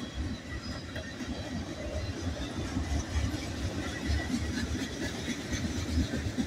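Freight train's tank cars and gondolas rolling past: a continuous rumble of steel wheels on rail with uneven low thumps and clatter.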